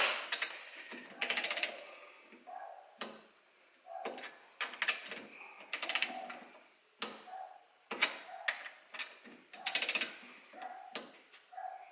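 Ratcheting torque wrench tightening the cylinder head nuts on a Lambretta TS1 two-stroke top end, in several short runs of rapid ratchet clicks with pauses between as it is moved from nut to nut.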